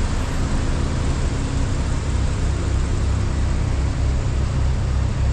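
Steady low rumble of vehicle engines idling, with a wash of noise over it.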